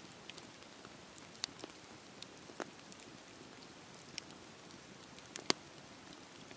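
Campfire crackling: a soft steady hiss of burning wood with scattered sharp pops, four of them standing out, the loudest about five and a half seconds in.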